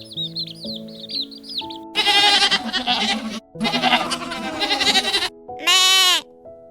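A hoofed farm animal bleating three times: two long, harsh calls, then a short call that rises and falls, over soft instrumental music. Small birds chirp during the first two seconds.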